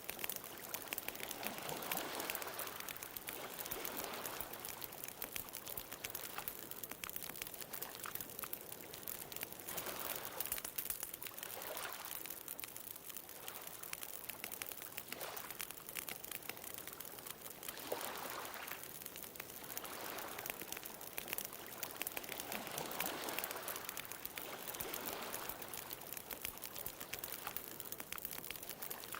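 Wood fire crackling with a steady spray of small pops, while ocean waves wash in and draw back in swells every few seconds.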